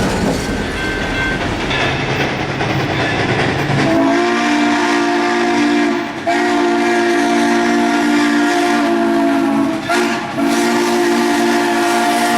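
Central Railroad of New Jersey 0-6-0 No. 113 steam locomotive running. About four seconds in, a multi-note steam whistle starts blowing and holds on in long blasts, broken twice for a moment.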